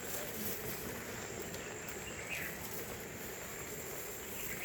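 Steady outdoor ambience: an even hiss with a thin, steady, high-pitched insect drone over it, and a faint short chirp about two seconds in.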